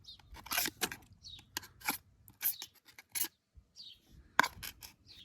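Razor clams being shelled by hand: irregular sharp clicks and short scrapes of the thin shells as the meat is pulled out.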